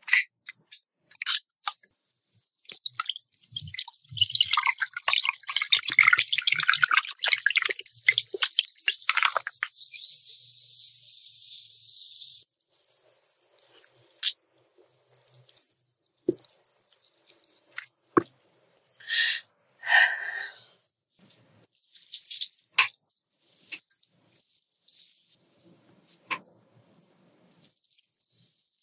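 Red Fanta soda poured into a glass: a couple of sharp clicks, then several seconds of pouring, then a fine fizzing hiss as the bubbles settle. After that come scattered small clicks and handling sounds.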